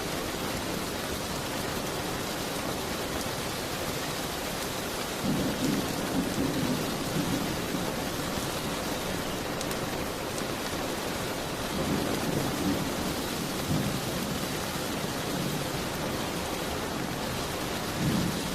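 Steady rain, with low rumbling swells rising out of it about five seconds in, again around twelve seconds, and briefly near the end.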